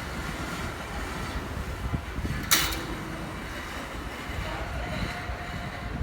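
Steady low rumble of traffic on the steel bridge deck overhead, mixed with wind on the microphone. A single sharp knock comes about two and a half seconds in.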